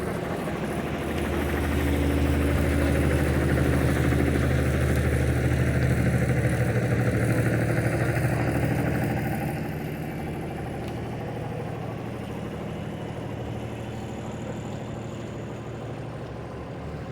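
A motor vehicle's engine running close by, a steady low hum that grows louder about a second in and eases off after about ten seconds.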